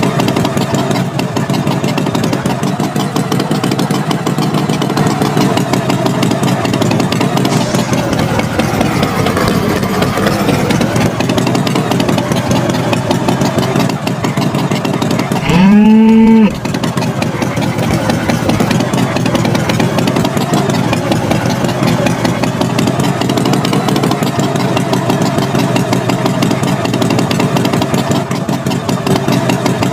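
Steady tractor engine running throughout, with a single loud moo about halfway through that starts with a rise in pitch and lasts about a second.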